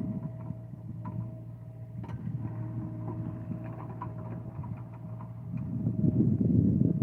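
John Deere excavator's diesel engine running, with a steady high whine over it and scattered light clanks. The engine grows louder for the last second or two, as if put under load.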